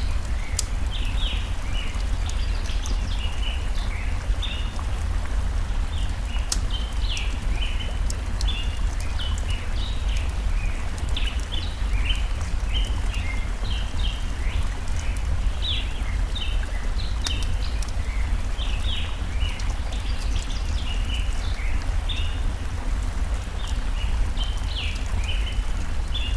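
Mixed forest ambience: a steady low rush of flowing stream water, with birds chirping in quick short calls throughout and a campfire crackling in scattered sharp pops.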